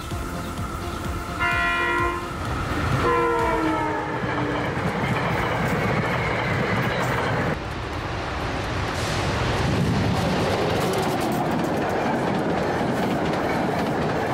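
SEPTA electric passenger train sounding its horn twice, the second blast sliding down in pitch, followed by the steady rumble and clatter of the train rolling on the tracks.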